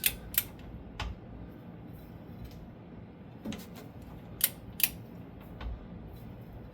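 Scattered sharp metallic clicks from a large torque wrench and its ratchet head being worked on a pinion nut, with the loudest pair near the middle. The nut is still short of its 230 ft-lb setting, so this is not the wrench's torque-release click.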